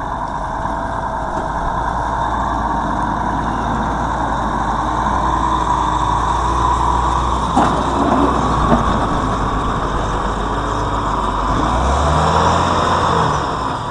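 Heavy truck's engine running steadily, with a deep rumble, and two sharp knocks about halfway through.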